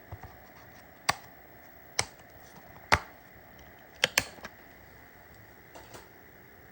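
Sharp plastic clicks of buttons being pressed: five loud clicks roughly a second apart, the last two in quick succession, with a few fainter clicks just before and near the end.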